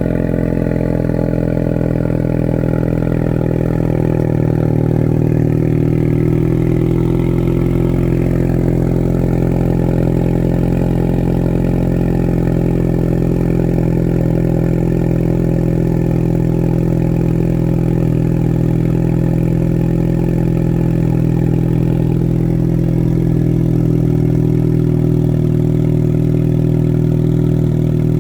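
Ford Mustang EcoBoost's turbocharged 2.3-litre four-cylinder idling steadily just after a cold start, heard through its active exhaust.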